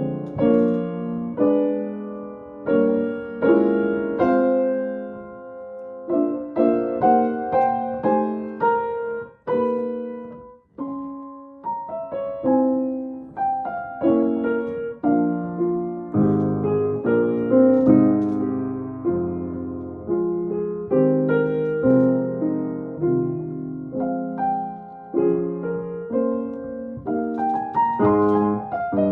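Yamaha piano played as a slow, free improvisation: single notes and chords struck and left to ring, with a brief pause about ten seconds in.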